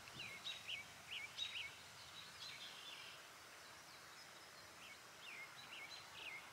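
Birds chirping: short calls that drop in pitch, coming in small clusters, over a faint steady outdoor hiss.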